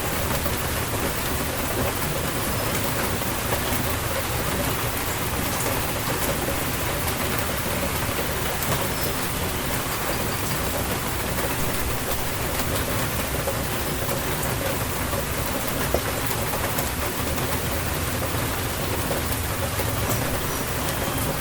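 Steady rain falling on surfaces, an even hiss with scattered sharp drop ticks.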